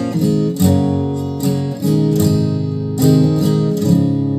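2021 Gibson J-45 Standard acoustic guitar strummed, with chords struck about once a second and bass notes moving underneath.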